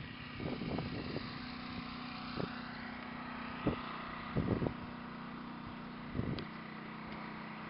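A motor running steadily with a low, even hum, with a few short knocks and bumps at intervals.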